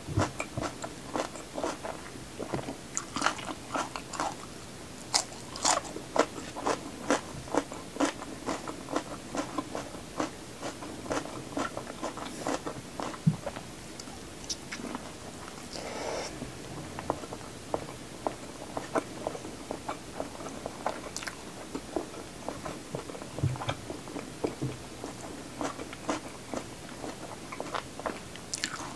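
Close-up crisp crunching and chewing of raw vegetables (bell pepper, okra), many sharp crunches in quick succession.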